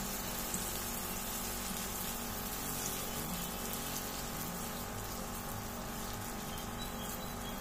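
Grated potato-and-vegetable batter sizzling steadily in hot ghee in a kadai as it is spooned in and spread out into a pancake.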